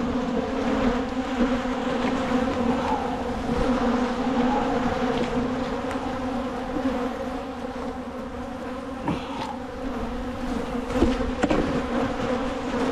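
A mass of honeybees buzzing around an opened hive, a steady droning hum. The bees are agitated and defensive, disturbed late in the season. A few light knocks sound near the end.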